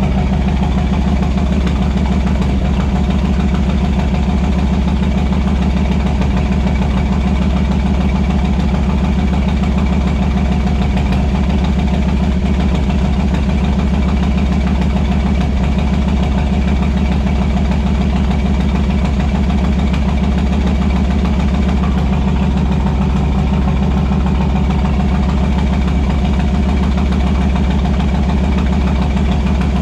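Harley-Davidson motorcycle V-twin engine idling steadily and loud, running on a nearly empty fuel tank.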